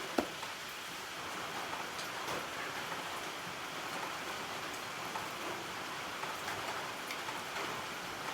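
A steady, even hiss like rain on a surface, with one short sharp click just after the start.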